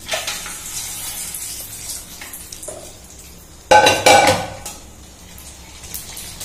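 Pani puri discs dropped into hot oil in a steel kadai, frying with a light sizzle. About four seconds in, a loud clatter of steel utensils against the pan.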